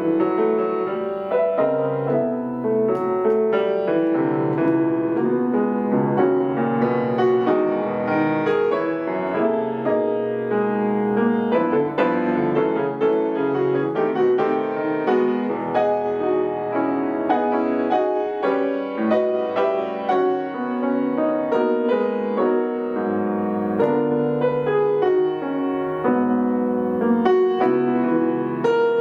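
Solo piano playing continuously, chords and a melody with notes struck in close succession.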